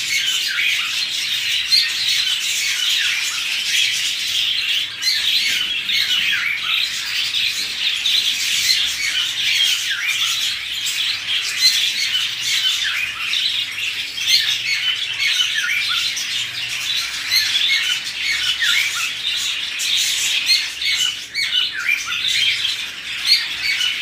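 Many caged pet birds chirping and squawking at once: a dense, unbroken chatter of short high calls.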